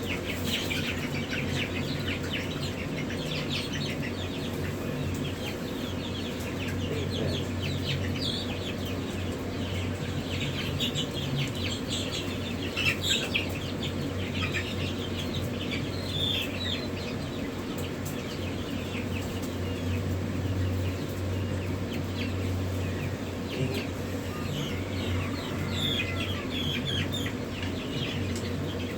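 Many newly hatched chicks peeping continuously in short high chirps, over a steady low hum.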